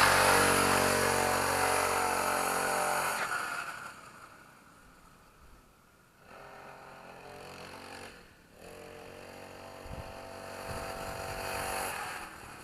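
Engine of a 40cc mini dirt bike running as the bike rides away, fading to faint within about four seconds. It comes back louder from about six seconds in as the bike returns, then fades a little near the end. The engine is not yet fully warmed up.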